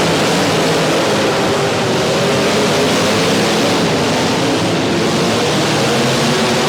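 Several demolition derby car engines running and revving at once, a loud, steady mix of engine pitches with no single crash standing out.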